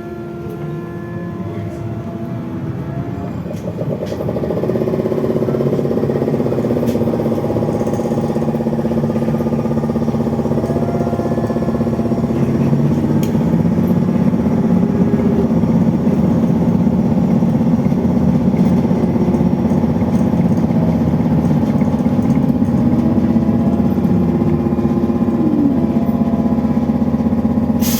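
Cabin of a BKM 32102 trolleybus under way: its electric traction drive whines in steady tones that glide up and down in pitch as it speeds up and eases off, over rolling noise. It grows louder about four seconds in.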